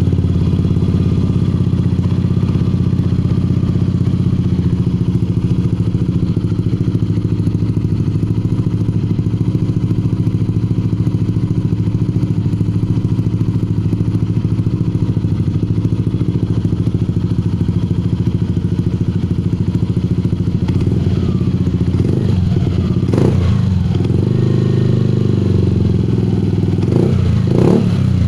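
Yamaha Aerox 155's single-cylinder four-stroke engine idling steadily through an aftermarket Akrapovic GP exhaust, with a few short throttle blips near the end.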